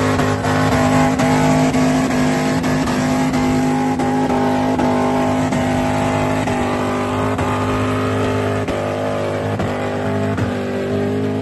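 Holden Commodore's engine held at high revs through a burnout, the rear tyres spinning and smoking on the bitumen. The engine note stays steady and unbroken, stepping up in pitch a few times.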